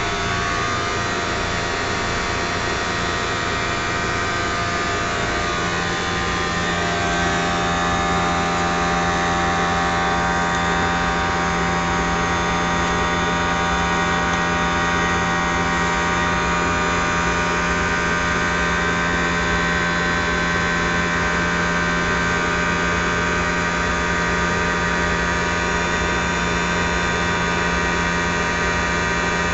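Triangle blower motor running steadily, a hum with a whine on top over rushing air. About six or seven seconds in it gets slightly louder and its tones shift, then holds steady.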